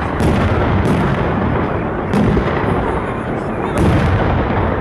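Salute fireworks shells bursting overhead: about four sharp bangs, irregularly spaced, over a dense steady din.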